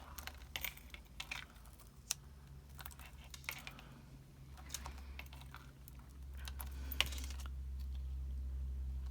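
Scattered small clicks and taps of pearls being picked up with a Take Your Pick tool and pressed onto a paper card, over a low steady hum that grows louder after about six seconds.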